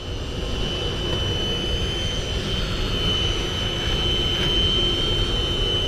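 Electric fishing reel's motor winding in line against a hooked tuna, a steady high whine over a low rumble.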